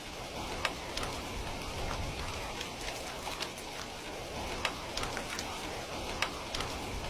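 Steady rain falling, with a few sharp clicks and pops scattered irregularly through it.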